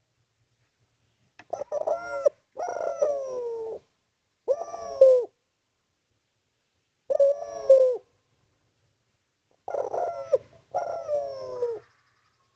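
A male spotted dove (derkuku/tekukur) cooing loudly in a run of about six short phrases, each falling in pitch, with brief pauses between them. It is the territorial call used to challenge a rival.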